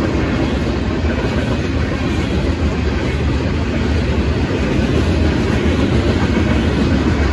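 Freight train's covered hopper cars rolling past at a grade crossing: a loud, steady rumble of steel wheels on the rails.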